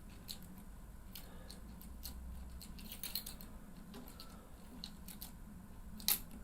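Irregular small clicks and scratches of hard plastic and metal parts being handled: the anti-theft lock key being turned in the display's quick-release bracket. One sharper click comes near the end.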